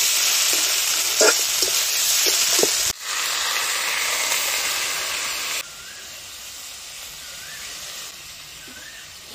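Fish pieces and grated coconut frying in oil in a kadai: a loud sizzle with a few short scrapes of the spatula. About three seconds in, water poured into the hot pan sets off a strong hiss, which drops to a quieter simmer a little over halfway through.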